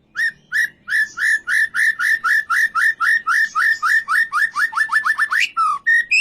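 White-rumped shama singing: a long series of short, clear whistled notes repeated about three a second, speeding up and dropping slightly in pitch toward the end, then breaking into a few varied whistles.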